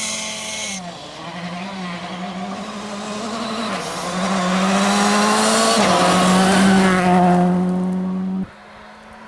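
Rally car engine revving hard under acceleration, pitch climbing and dropping back at several upshifts, growing louder as it comes closer. A high whine is heard in the first second, and the sound cuts off abruptly near the end.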